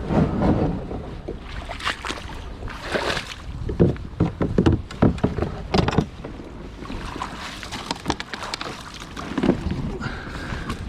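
Sea kayak on the move: irregular splashes and sloshing of water against the hull, with scattered knocks.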